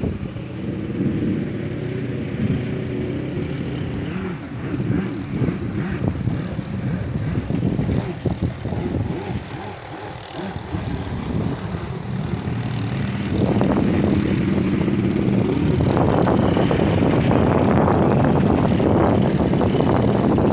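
Storm wind gusting and buffeting the microphone with a low rumble, growing louder and stronger a little past halfway.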